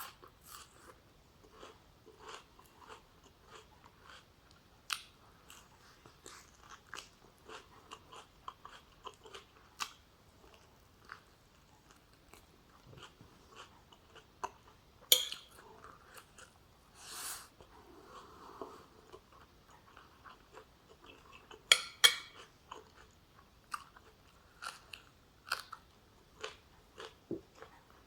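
Close-miked chewing of oxtail stew with rice and vegetables: a run of wet mouth clicks and soft crunches, with a few louder sharp clicks about halfway through and again later.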